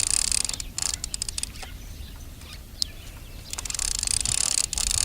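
Baitcasting reel being cranked to wind the untangled line back onto the spool: a fast, even whirring that stops for a couple of seconds in the middle and then starts again, with a single sharp tick before it resumes.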